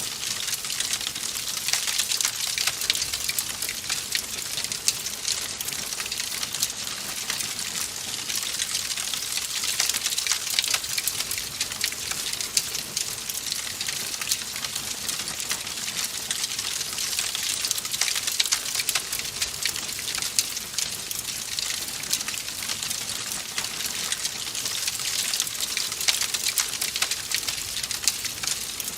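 Wood fire crackling steadily: a dense hiss of tiny snaps, with frequent sharper pops from the burning logs.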